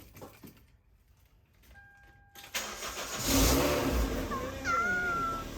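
Toyota 2ZZ-GE four-cylinder engine swapped into an MR2 cranking and catching on its first start, a sudden loud burst about two and a half seconds in that settles into steady running. A short electronic beep comes just before it.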